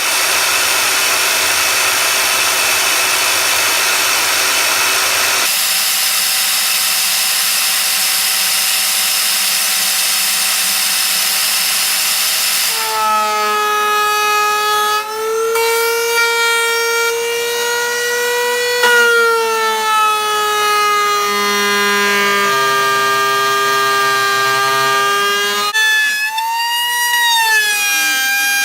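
Router spinning a bearing-guided flush-trim bit and trimming the edge of a phenolic resin insert. At first it gives a steady, hissy machine sound. About halfway through it changes to a loud, piercing whine that slowly wavers up and down in pitch as the bit cuts.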